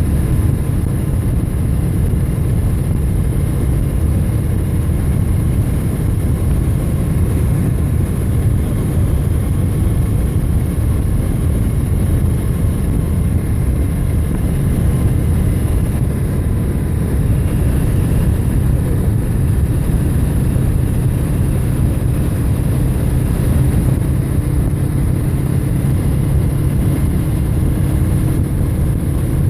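Steady low rumble of wind and road noise while riding along a road, with a few faint steady tones above it and no rise or fall.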